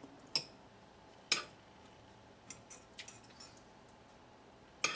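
A few light clicks and taps of a kitchen utensil against a glass jar while sauerkraut is packed in: two sharper clicks in the first second and a half, then a few fainter ticks.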